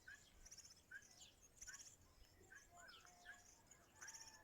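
Faint birdsong from several small birds: a short chirp repeated about once a second, mixed with buzzy high trills and a few lower whistled notes.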